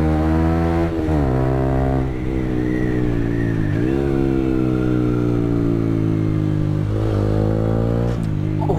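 Motorcycle engine running under load: its pitch climbs and then drops sharply about five times, as with repeated gear changes or throttle changes.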